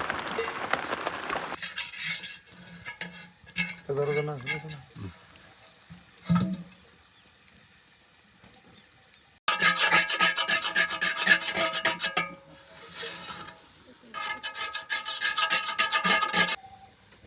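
Rasping, scraping strokes in short separate bursts, the loudest two in the second half, with a patch of rain-like hiss at the very start that cuts off abruptly.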